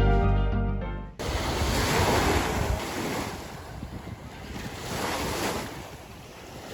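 Lake waves washing and lapping, swelling and ebbing every second or two, with wind buffeting the microphone. For the first second, background keyboard music plays before cutting off abruptly.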